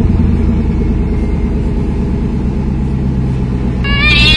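Car engine running with a steady low rumble, then a loud cat meow starting near the end.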